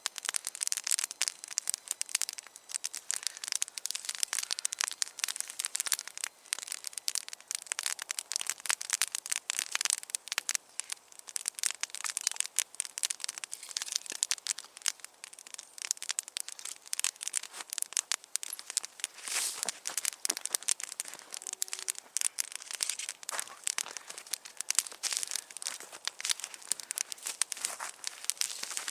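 Campfire burning, crackling with a dense, steady run of sharp pops and snaps.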